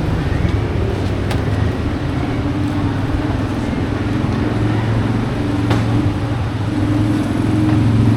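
A motor vehicle engine running steadily with a low hum, with two short knocks, one early and one about two-thirds of the way through.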